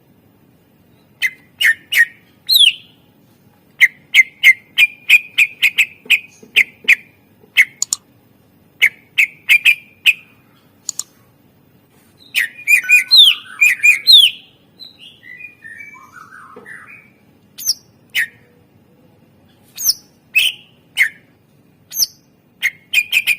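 A cucak ijo (green leafbird) singing: quick runs of short, sharp chirps and whistled notes broken by brief pauses. About halfway through it gives a denser run of rising and falling glides.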